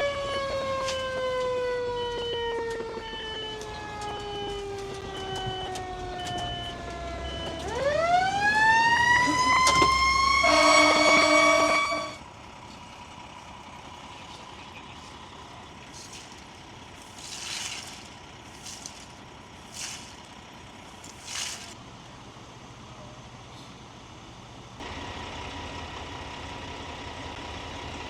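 A fire engine's siren winding slowly down in pitch, then winding back up, with a short steady horn blast over it near the middle. After that it drops to a quieter background with a few short hissing bursts.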